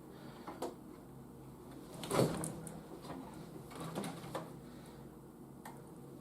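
Plastic toy vehicles being handled and set down: a few scattered knocks and clatters, the loudest about two seconds in.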